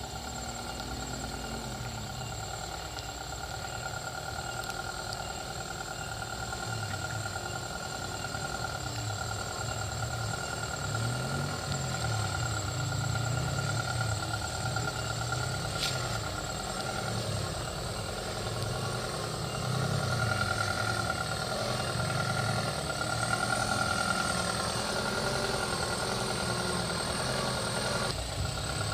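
A motor running steadily, with a wavering low hum and a steady high whine, growing a little louder in the second half; a single sharp click about sixteen seconds in.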